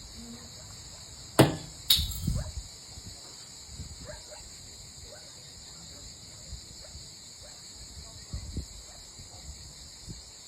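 Steady, high-pitched drone of a chorus of insects. Two loud, sharp knocks come close together about one and a half seconds in, followed by scattered softer ticks.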